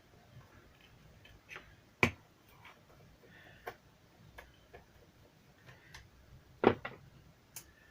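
Irregular small clicks and taps of a screwdriver, screws and plastic parts being handled while a JBL Charge speaker is taken apart, with two sharper knocks, one about two seconds in and one near the end.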